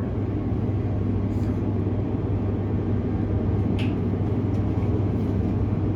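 Cabin noise of a Transperth B-series electric multiple unit creeping along at under 10 km/h: a steady low hum over even running noise, with a faint click about four seconds in.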